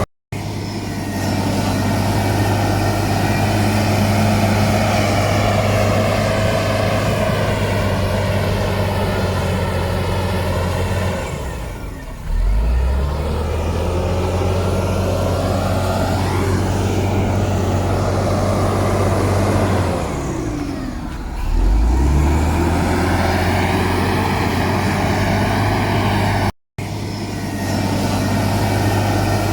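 Heavy diesel engine of earthmoving machinery running steadily under load. About twelve seconds in and again about twenty-one seconds in, the engine speed drops and then climbs back up. There are two brief dropouts to silence.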